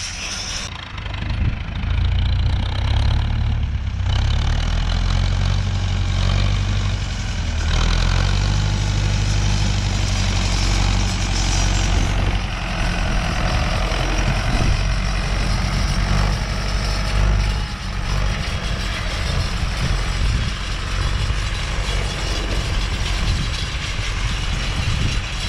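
Renault 651 tractor's diesel engine running steadily as it pulls a chain harrow, heard close up, its note shifting a few times.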